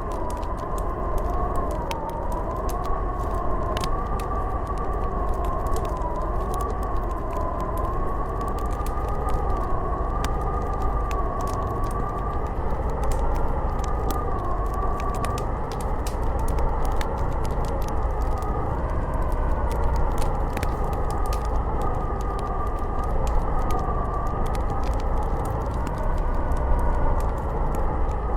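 Snowstorm wind howling with a wavering whistle over a steady low rumble, while a wood fire crackles with frequent sharp pops.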